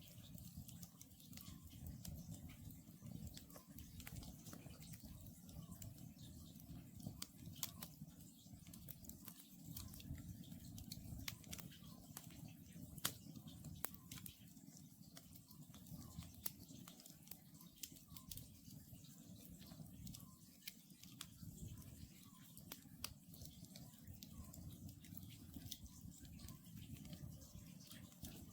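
Wood campfire crackling faintly, with frequent sharp pops and snaps over a low, steady rumble. The loudest snap comes about halfway through.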